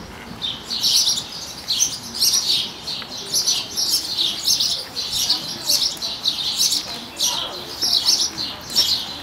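Small birds chirping over and over, several short high chirps a second.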